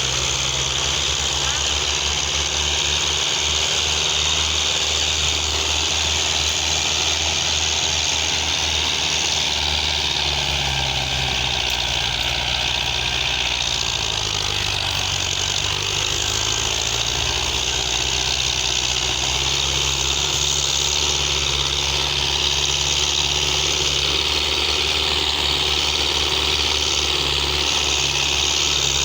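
Tractor diesel engine idling steadily, with a constant hiss over it.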